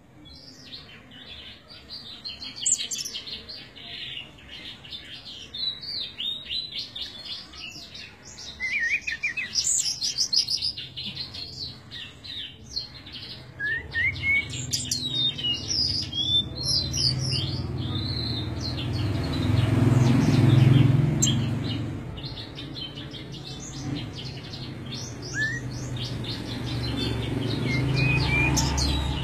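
Small birds chirping and twittering repeatedly. From about halfway a low rumble swells underneath, loudest about two-thirds in.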